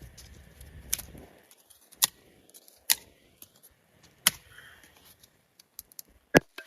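Kindling wood snapping and popping: single sharp cracks about a second apart, the loudest near the end, over a low rumble that stops after about a second.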